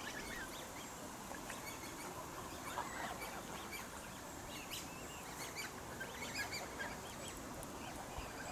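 Birds calling: many short calls that rise and fall in pitch, scattered unevenly and overlapping at times.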